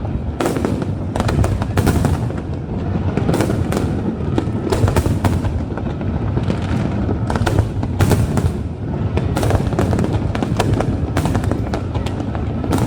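Fireworks display: aerial shells going off in a dense, continuous barrage of overlapping bangs and crackles, several per second, with no pause.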